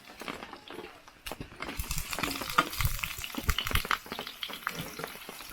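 Food frying in a pan, sizzling and crackling, with short clicks of a utensil stirring; the crackle picks up about two seconds in.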